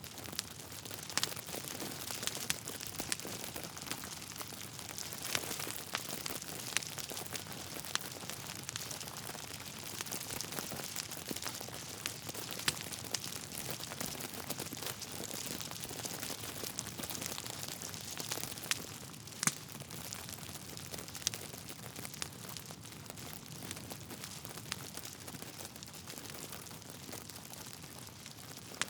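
Wood fire crackling steadily, with irregular sharp pops and snaps from the burning logs over a soft hiss.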